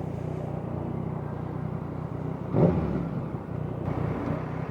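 Yamaha FZ-09's three-cylinder engine idling steadily while the bike sits in traffic. A brief louder sound about two and a half seconds in slides down in pitch.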